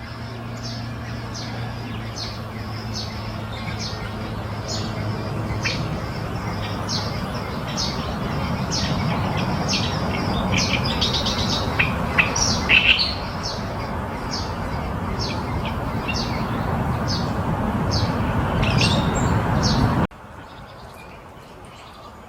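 Black-naped oriole chicks giving short, high chirps over and over, about one or two a second, in the begging calls of nestlings; the calls come thicker and louder for a moment about halfway through. A steady background hiss runs underneath and cuts off abruptly near the end.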